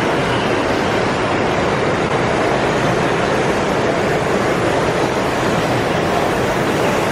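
Steady, even hubbub of a crowd echoing in a large exhibition hall.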